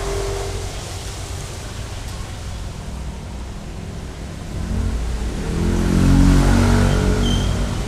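A motor vehicle's engine running over steady traffic rumble, growing louder as it passes close, loudest about six seconds in, then easing off.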